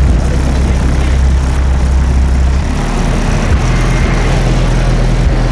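Car audio system with four Pioneer 308 subwoofers playing bass at very high volume: a steady deep tone that shifts to a lower, rougher bass about two and a half seconds in, with a noisy buzz over it.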